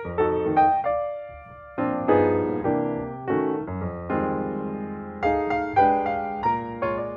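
Background piano music, notes and chords struck and left to fade.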